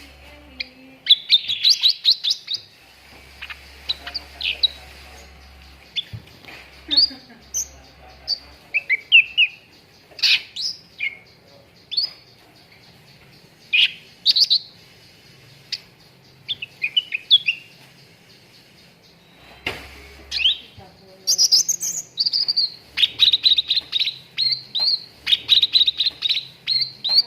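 Cucak ranting songbird singing in phrases of short, sharp chirps and quick sweeping notes, with brief pauses between them. Near the end it breaks into a faster, denser run of chirps.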